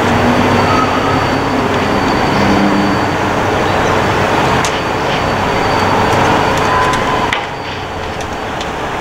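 Train running past nearby out of view: a steady rolling rumble of wheels on rail with a faint high whine, dropping away about seven seconds in.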